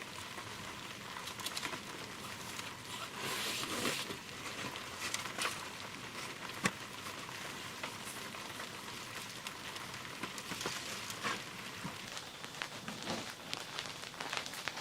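Steady rain falling, with scattered sharper drop impacts throughout.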